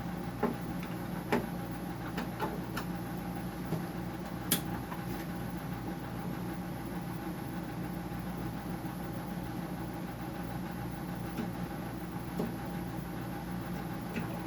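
Steady hum of a running dehumidifier's compressor and fan, with scattered light clicks and knocks of a screwdriver and screws against a plastic case being taken apart.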